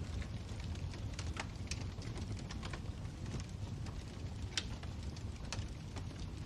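Wood fire burning in a fireplace: a steady low rumble with irregular sharp crackles and pops, a louder pop about four and a half seconds in.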